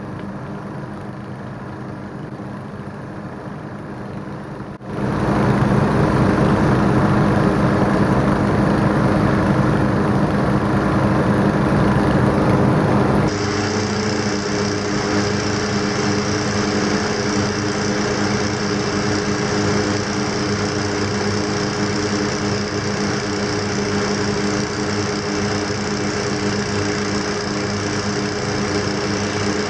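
Several small gasoline engines running steadily at once. The sound jumps abruptly louder about five seconds in, and changes again at about thirteen seconds.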